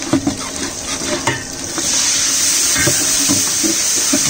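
Chopped onions frying in oil in a steel pot, with a metal spatula scraping and stirring. About two seconds in, the sizzle jumps up louder and steady as the washed fenugreek leaves go into the hot oil.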